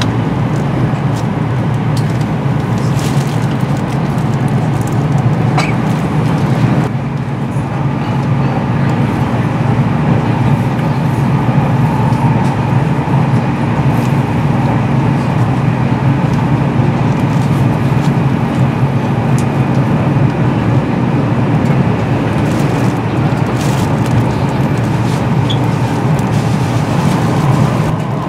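Steady running noise inside a Meitetsu 2000-series μSKY electric train cruising at speed, about 100 to 117 km/h on elevated straight track, easing off toward the end.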